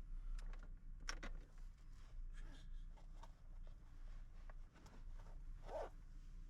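Scattered small rustles and clicks of things being handled inside a parked car, over a low steady hum.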